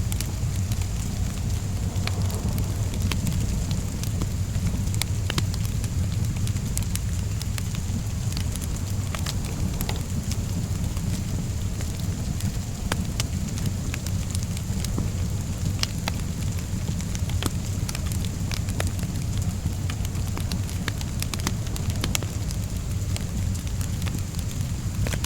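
Wood fire crackling, with scattered sharp pops and snaps over a steady low rumble, mixed with the even hiss of steady rain.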